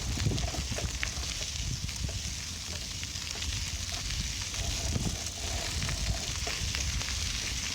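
Riding noise on a bicycle: wind rumbling on the microphone over a steady hiss of tyres rolling on the path, with scattered light clicks.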